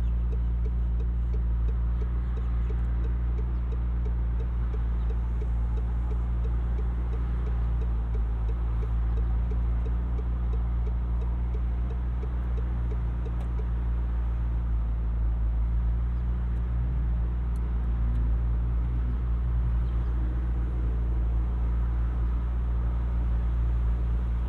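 McLaren 720S Spider's 4.0-litre twin-turbo V8 running at a steady, unchanging engine speed, a continuous low drone with no revving or acceleration.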